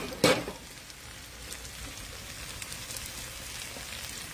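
Chicken thighs sizzling in oil in a skillet over a wood fire: a steady frying hiss with faint crackles. A single sharp knock comes just after the start and is the loudest sound.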